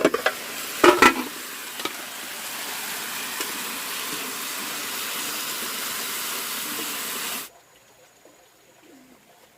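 Food sizzling in a hot pan: a couple of clatters of a utensil or pan at the start, then a steady sizzle that cuts off abruptly near the end.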